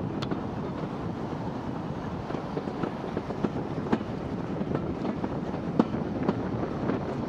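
Train running along the track: a steady rumble with scattered sharp clicks and knocks, the sharpest about six seconds in.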